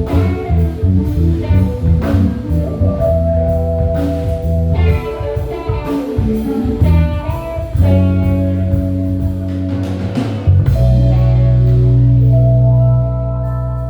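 Live band playing, with electric bass, drum kit, guitar and keyboard. About eleven seconds in it settles on a long held low chord.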